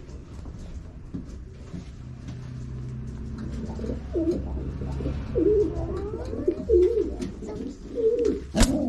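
Domestic pigeons cooing: a run of low, wavering coos starting about halfway in, with a sharp click just before the end.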